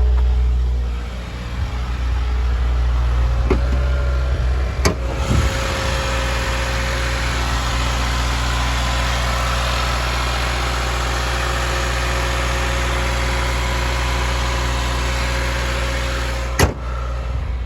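Subaru WRX's flat-four boxer engine idling steadily on a cold start, still warming up. A couple of sharp clicks come about four to five seconds in, and another near the end.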